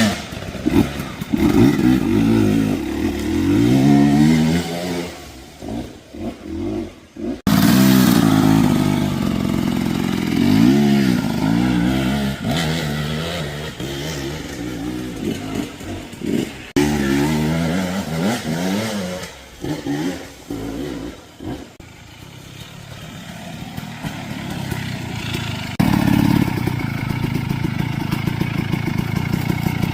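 Two-stroke dirt bike engine being ridden, revving up and dropping off again and again as the rider works the throttle and gears. The sound changes abruptly a few times, where separate riding clips are joined.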